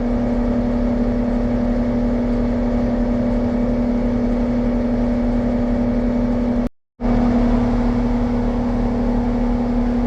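Steady hum of an engine running at a constant speed, with a brief cut-out of all sound about seven seconds in.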